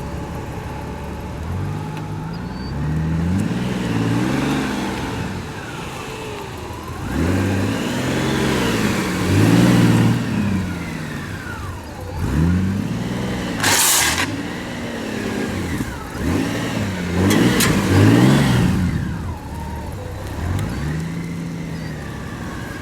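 Honda Gold Wing motorcycle engine revving up and dropping back about five times, each swell lasting a few seconds, as the bike rides slow, tight figure-eight turns. A short hiss comes midway.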